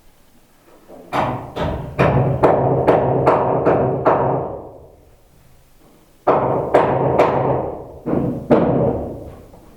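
Two clusters of loud, hollow knocks that ring on like a drum and fade, the first starting about a second in and the second about six seconds in.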